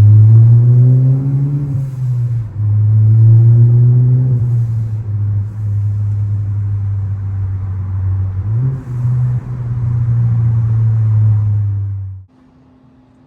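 Ford Focus ST's tuned turbocharged four-cylinder engine under load, its pitch climbing and then dropping back, as at a gear shift, a few times. The engine sound cuts off suddenly near the end, leaving a faint steady hum.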